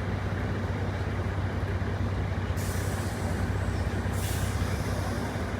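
Bus diesel engine running steadily, with two sharp hisses of compressed air from the bus's air system, the first about halfway through and a shorter one a second and a half later.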